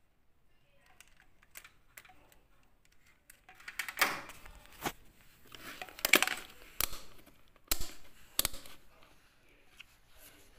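A series of clicks and clattering knocks, sparse and faint at first, then several sharp, loud knocks between about four and nine seconds in.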